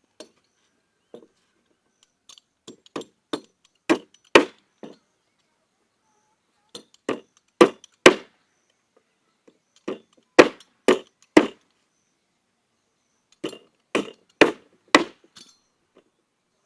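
Timber boards being knocked together with hard blows on wood, to close the joint tight. The blows come in four quick runs of three to six, each run building to its loudest strikes.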